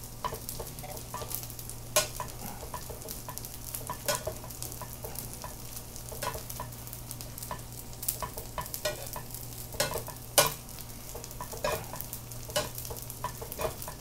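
Tiny dried anchovies sizzling as they are stir-fried in plenty of oil to turn them crisp. A spatula stirs them, with irregular clicks and taps against the pan, and a steady low hum runs underneath.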